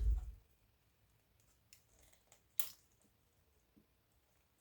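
A dull knock, then a few faint sharp clicks, the loudest about two and a half seconds in: small microwave switches being handled.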